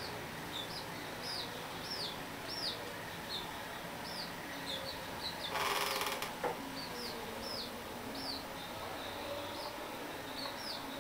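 Birds chirping outside, short high notes that each rise and fall, repeating one or two a second. About five and a half seconds in there is a brief noisy burst, then a click.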